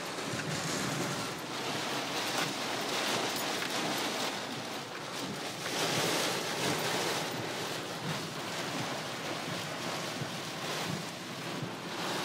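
Rainstorm noise: a steady rush of heavy rain and wind that swells and eases every few seconds.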